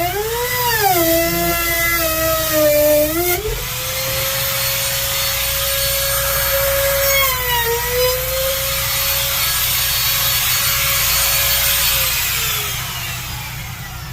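Flush-trim router cutting wood: the motor's whine dips and wavers under load for the first few seconds, then runs steady at high speed with one brief dip. It spins down about twelve seconds in.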